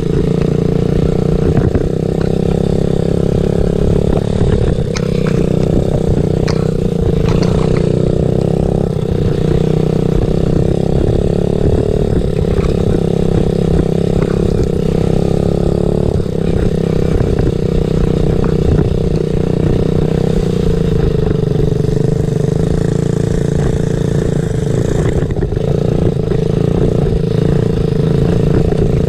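Small dirt-bike engine running continuously, its pitch rising and falling a little with the throttle, with scattered clicks and clatter.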